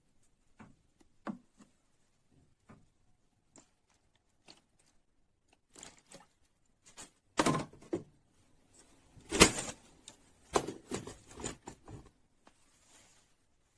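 Scattered knocks and clicks of hard objects being handled and set down on a work surface, sparse at first, then busier. The loudest is a sharp knock about two thirds of the way through.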